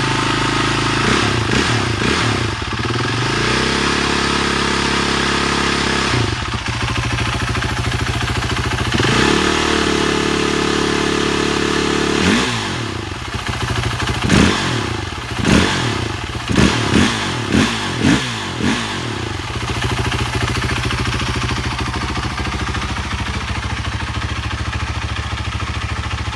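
BMW G450X's 450 cc single-cylinder four-stroke engine idling, held briefly at a higher speed, then given a run of about six quick throttle blips before settling back to a steady idle.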